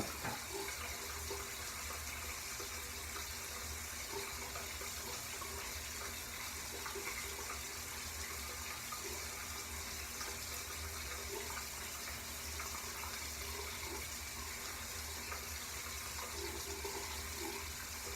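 Steady hiss of water running from a tap, with a low hum under it.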